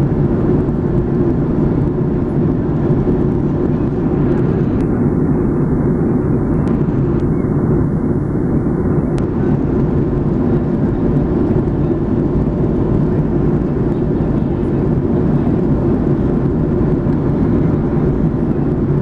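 Steady cabin noise inside a Boeing 757-200 airliner: an even, low-heavy rush of engine and airflow noise that does not change.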